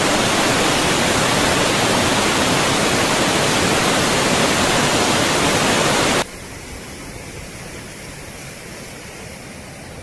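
A loud, steady rushing of water cuts off abruptly about six seconds in, where the clip changes. A quieter steady rushing follows.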